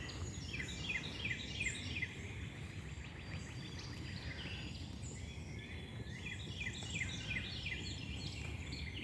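A flock of small birds chirping in a tree: many short, high chirps that slide downward, coming in quick runs. The chirping is busiest near the start and again past the middle, over a steady low background rumble.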